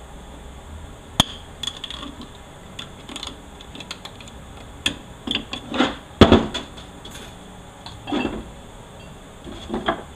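Metal parts of a 4L80E automatic transmission clinking and knocking as they are handled and set down: irregular knocks and clinks, the loudest about six seconds in.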